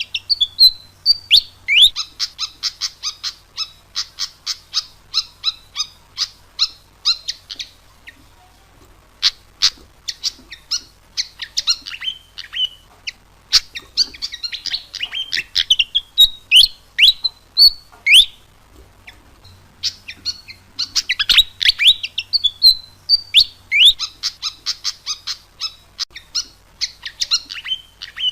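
Pied fantail (burung kipasan) singing: quick runs of high chirps and short sliding whistles, some rising and some falling. The song comes in phrases several seconds long with short pauses between.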